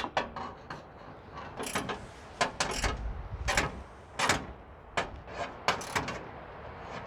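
Hand tools working on bolts in metal bodywork: irregular clicks, clinks and short scrapes, with a few louder strokes near the middle.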